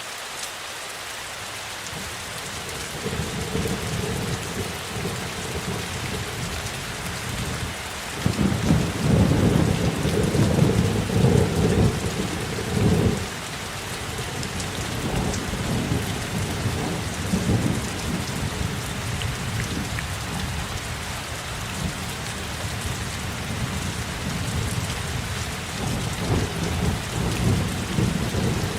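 Steady rain falling, with rolling thunder beneath it. A low rumble comes in a few seconds in, is loudest for about five seconds in the middle, then keeps rumbling more quietly and swells again near the end.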